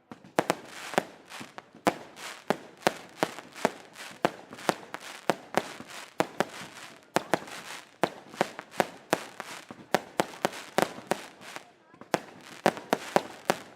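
Daytime fireworks display: a rapid string of sharp bangs, about two a second, each with a short echo. There is a brief lull near the end, then a quick run of bangs.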